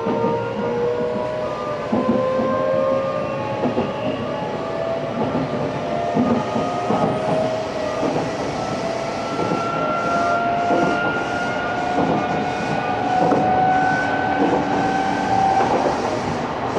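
Running sound inside an Odakyu 8000-series electric train refitted with a Mitsubishi SiC-VVVF inverter: the traction motor and inverter whine rises slowly in pitch as the train gains speed, over the steady rumble of the wheels. From about halfway on, wheel clatter over rail joints comes at an even rhythm.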